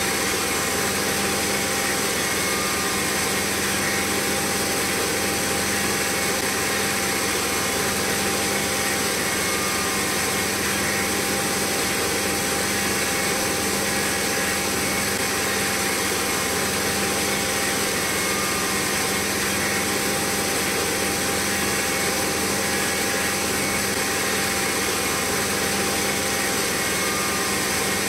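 Small motor running steadily at an even speed, with a constant whine.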